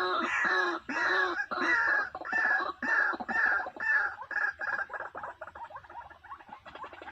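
A bird calling over and over, a series of harsh arched notes about one and a half a second, growing fainter and quicker after about five seconds. Music comes in near the end.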